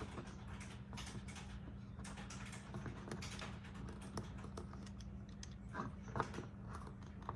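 Faint, irregular clicks and taps of a plastic action figure and its accessories being handled and snapped into place, over a steady low hum.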